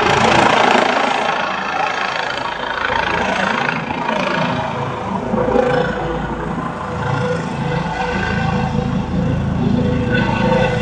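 Air ambulance helicopter's rotor and engine noise over city street traffic, loudest in the first couple of seconds. About halfway in, a steady tone joins it.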